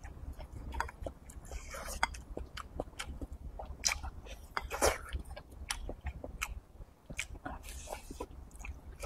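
A person biting and chewing braised meat with rice, with many short wet mouth clicks and smacks; the loudest comes about five seconds in.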